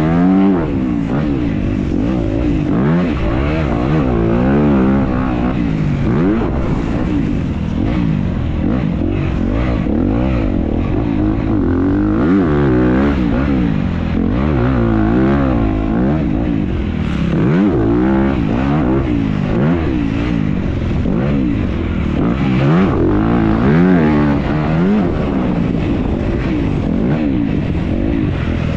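Motocross bike's engine heard onboard while racing, its pitch repeatedly climbing and dropping every second or two as the rider opens and shuts the throttle through the turns and jumps.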